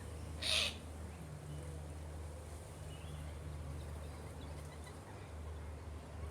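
Birds calling: one short harsh squawk about half a second in, then a few faint chirps, over a steady low hum.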